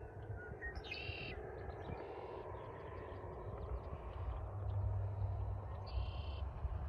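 Red-winged blackbirds singing, with two short buzzy trills, one about a second in and one near the end, over a low steady rumble that grows louder in the second half.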